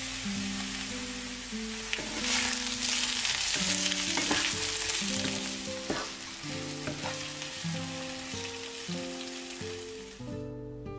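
Eggplant strips and cherry tomatoes sizzling in hot oil in a non-stick frying pan, the sizzle growing louder about two seconds in. A wooden spatula stirring them knocks and scrapes against the pan a few times midway, and the sizzle cuts off shortly before the end. Background music plays underneath.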